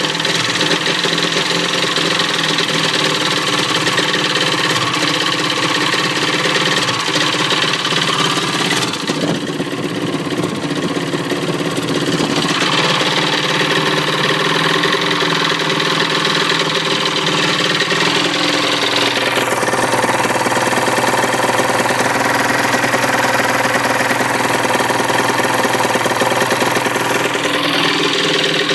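1995 Sea-Doo HX's 717cc Rotax two-stroke twin running at idle, its note shifting a couple of times. It will idle but dies as soon as it is given throttle, which the owner puts down to fuel: the rear carburettor is getting lots of gas while the front one seems dry.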